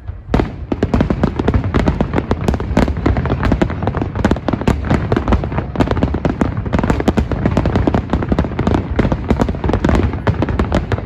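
Fireworks show: a dense, continuous barrage of sharp bangs and crackles, several a second, over a low rumble.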